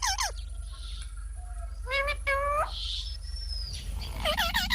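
Parrot giving short, pitched squawk-like calls in three bursts: at the start, about two seconds in, and near the end, with a thin high whistle just after the middle. A steady low hum runs underneath.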